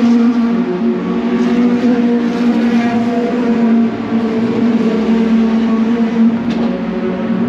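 A vehicle engine running at steady high revs, its pitch rising and falling only slightly.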